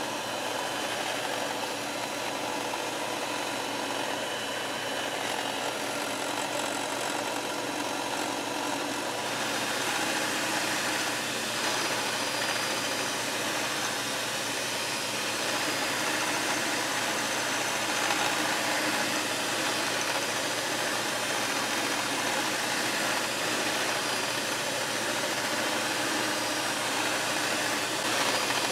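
Electric mixer running steadily, its beaters whipping heavy cream in a bowl to make butter. The motor hum gets a little louder and brighter about nine seconds in.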